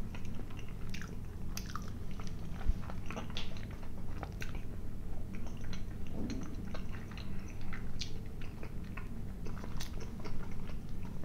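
A man chewing and biting food close to the microphone: irregular small mouth clicks and crunches.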